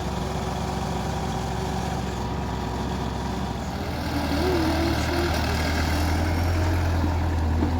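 Heavy diesel engine running steadily, growing louder about four seconds in.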